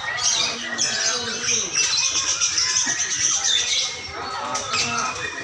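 Many lovebirds chattering and trilling together in a dense, shrill, continuous stream.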